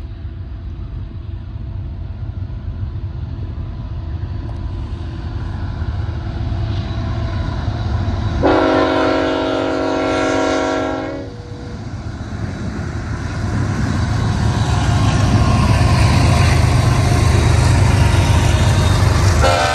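BNSF diesel locomotives hauling an eastbound intermodal train upgrade, approaching and passing with a deep engine and wheel rumble that grows louder as they near. The lead locomotive's air horn sounds a chord in one long warning blast for the crossing about eight seconds in, and starts another just at the end.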